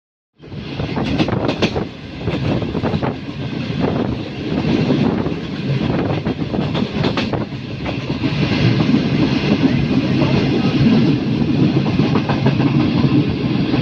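Passenger train wheels running slowly over the track, a steady rumble with scattered clacks as the wheels cross rail joints.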